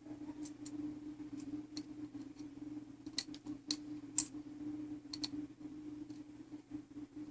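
Scattered, irregular small clicks and taps of tools against the small brass parts of a clock movement as it is handled and oiled during reassembly, over a steady low hum.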